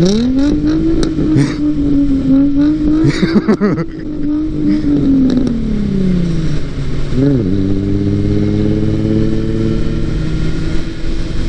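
Straight-piped Nissan 350Z's V6 engine revving up hard and pulling for several seconds, then easing off, with a short rev blip about seven seconds in. A second engine drones steadily underneath.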